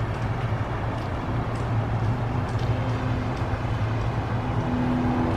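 A steady low engine hum, like a vehicle running nearby, with a tone in it that grows stronger toward the end, over a wash of rain noise.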